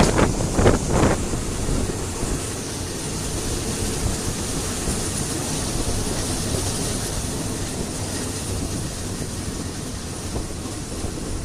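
Passenger train running along the track, heard from aboard: a steady rumble of the carriage with a rush of wind. A few louder bursts come in the first second, then the sound settles to an even level.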